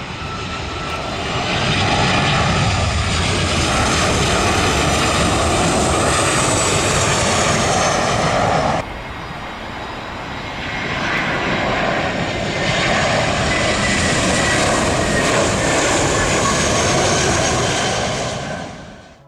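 Jet airliners on final approach passing low overhead: the engine noise swells to a loud rush with a high whine that falls in pitch as each one goes by. The sound cuts off abruptly about nine seconds in, then a second pass swells up and fades away near the end.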